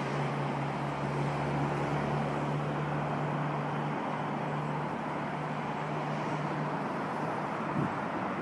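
Steady vehicle noise with a low engine hum that stops about seven seconds in.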